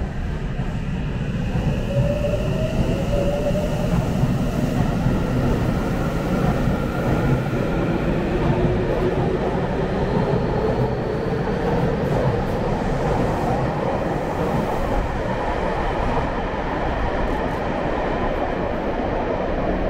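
Electric commuter train pulling away, its motor whine rising in pitch as it gathers speed over a steady rumble of wheels.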